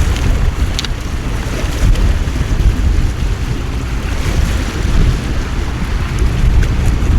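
Torrential rain pouring down in a steady hiss, with wind buffeting the microphone in a deep, uneven rumble underneath, and a few scattered splashing ticks.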